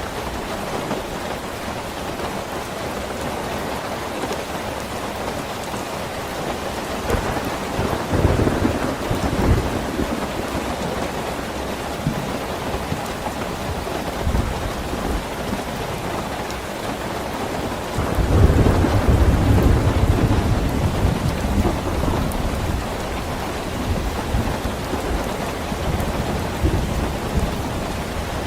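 Steady heavy rain falling, with a low roll of thunder about a third of the way in and a louder, longer one a little past halfway.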